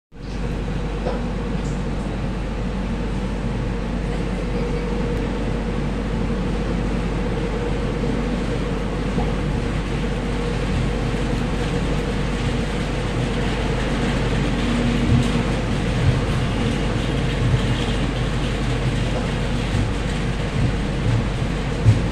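Steady rumbling running noise of a moving passenger train heard from on board, with a constant hum and a few light knocks from the wheels in the second half.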